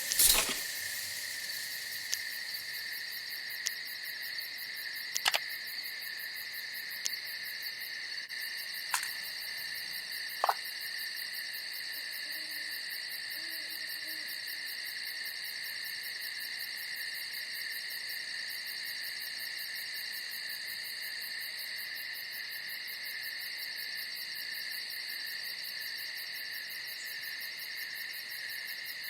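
Steady night chorus of crickets and other insects: a continuous high-pitched trilling that does not let up. A sharp knock comes right at the start, and a few fainter clicks follow in the first ten seconds.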